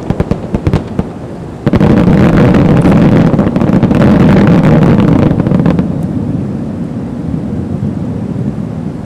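Fireworks going off: a quick string of sharp crackles, then a loud boom that rumbles on for about four seconds before slowly dying away.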